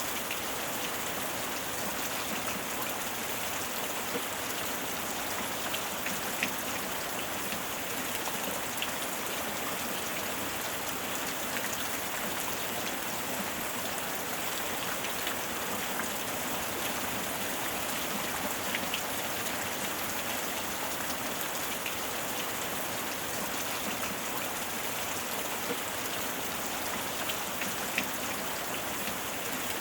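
Steady rain falling, an even hiss with scattered sharper ticks of single drops striking close by.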